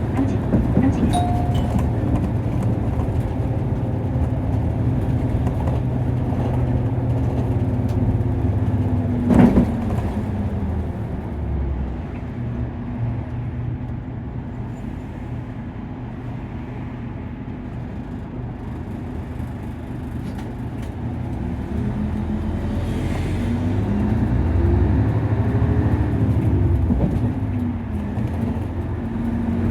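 Nissan Diesel KC-UA460LSN city bus heard from inside the cabin: the diesel engine running while the bus drives, with one sharp knock about nine seconds in. The engine note drops quieter in the middle, then rises and falls in pitch as the bus accelerates near the end.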